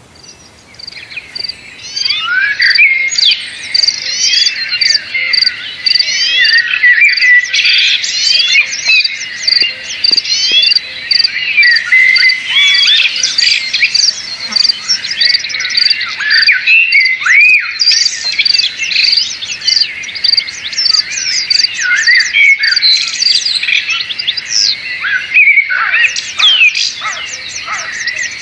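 Many small birds chirping and trilling over one another in a dense, continuous chorus. A steady row of evenly spaced high pips, a little under two a second, runs beneath it.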